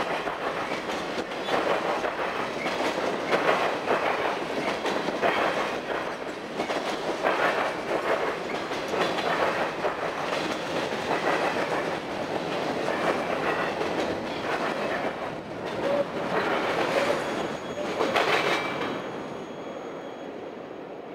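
Freight cars rolling past close by, their wheels clacking over rail joints in an uneven rhythm over a steady rumble. Near the end the last car goes by and the sound dies away.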